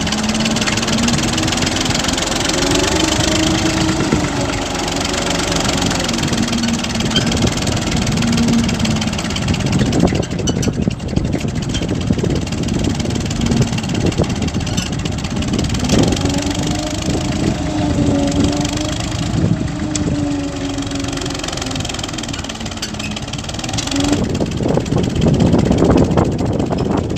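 Massey Ferguson tractor's diesel engine running, its pitch rising and falling as the throttle is worked, twice in the middle stretches. It gets louder and rougher near the end.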